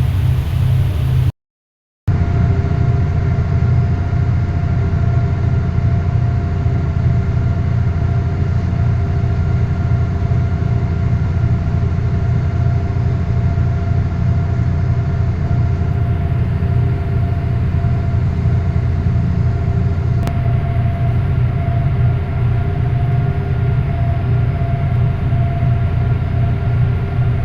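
Marine engine or ship's machinery running steadily: a loud, even, low drone with a constant hum. It drops out completely for a moment about a second and a half in.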